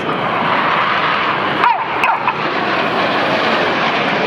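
Red Arrows BAE Hawk T1 jets' turbofan engines flying a low pass, giving a steady loud jet roar. Briefly in the middle a whine falls in pitch as the jets go by.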